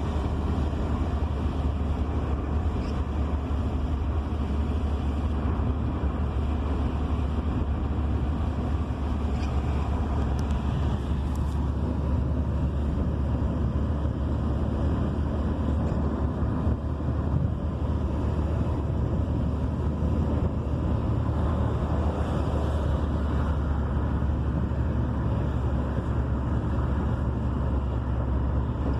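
A car on the move: steady low rumble of engine and road noise, unchanging throughout.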